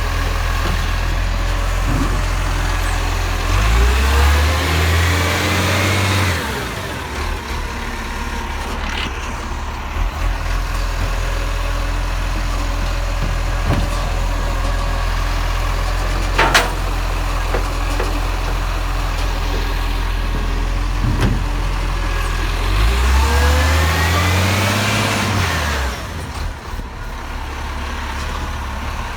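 Garbage truck engine idling with a steady low drone, revving up twice for a few seconds each time, the pitch rising then falling. There is a single sharp knock about midway between the two revs.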